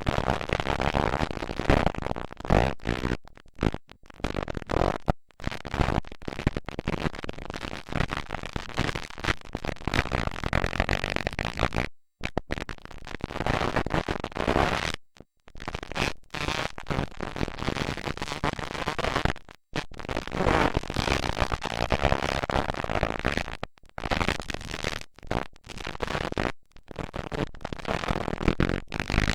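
Motocross dirt bikes racing, heard as harsh, rough noise with wavering engine tones. The sound cuts out completely for moments several times.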